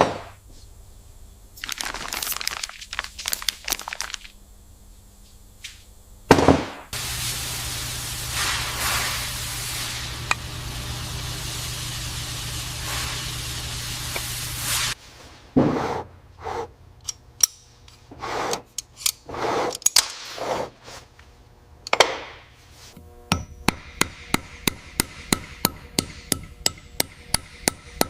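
Workshop tool sounds on an engine job: a power tool runs steadily for about eight seconds, with scattered knocks and scrapes around it, then a rapid, even run of metallic taps, about four a second, near the end.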